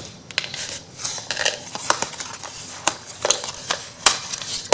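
Small sharp clicks and light rustling, irregularly spaced, as thin die-cut craft pieces are popped out of their sheet and handled on a tabletop.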